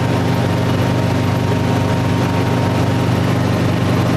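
Helicopter in cruising flight heard from inside the cabin: a steady drone of engine and rotors, with a low hum of several even tones and a faint thin whine above it.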